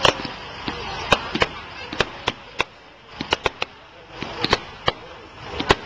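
Display fireworks going off: a dozen or more sharp, irregularly spaced bangs, some in quick clusters around the middle and again at the end.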